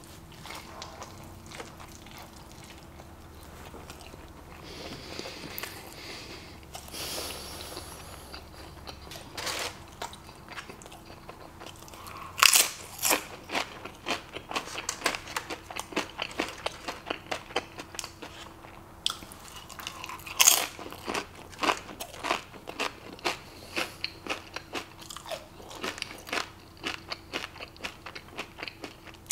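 A person eating close to the microphone, with a mouthful of carne asada taco being chewed. It is soft for the first twelve seconds, then two sharp loud bites come about twelve and twenty seconds in, each followed by a quick run of chewing clicks.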